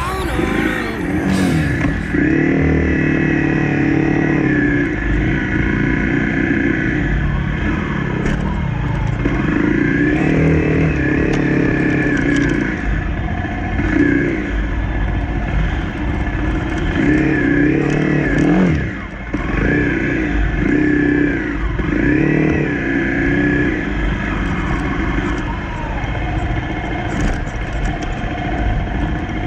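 Honda CRF250 single-cylinder four-stroke dirt bike engine riding on trails. The revs climb and drop again and again as the rider accelerates, shifts and eases off.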